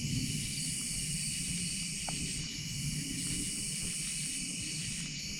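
Steady shrill chorus of night insects, dipping briefly a couple of times, over a low uneven rumble from cattle lowing in the fields.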